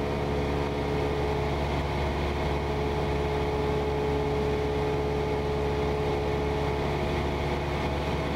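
Cessna 172's four-cylinder piston engine and propeller running steadily in cruise, a constant even drone heard from inside the cabin.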